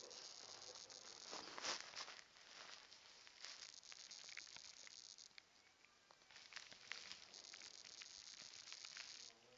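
Near silence: faint room hiss that comes and goes, with a few soft clicks and handling noises.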